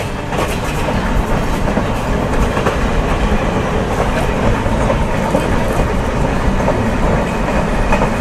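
Mumbai suburban local train running: a steady rumble with wheel clatter on the rails.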